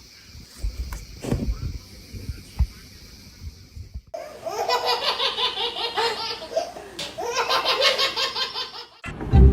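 A few soft low thumps, then about a second into the second half a burst of rapid, pulsing laughter that runs for about five seconds and breaks off shortly before the end.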